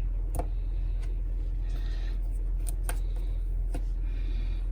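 A few light clicks and taps as multimeter test probes are put against the pins of a boiler thermistor, over a steady low hum.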